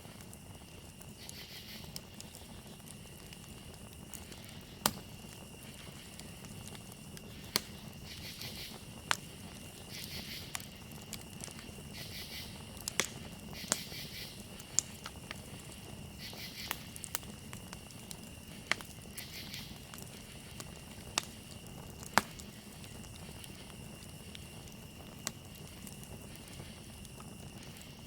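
Campfire crackling, with sharp pops every second or two over a low steady hiss. Behind it a steady high cricket trill runs on, joined now and then by short bouts of pulsing insect chirps.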